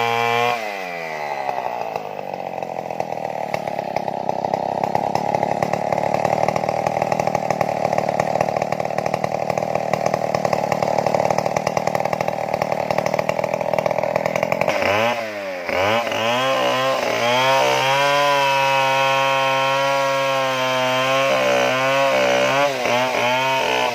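Stihl two-stroke chainsaw cutting into a tree trunk: the revs drop as the chain bites into the wood and hold steady under load for about twelve seconds. Then the saw revs up and down sharply a few times, runs at high revs, and the revs fall away near the end.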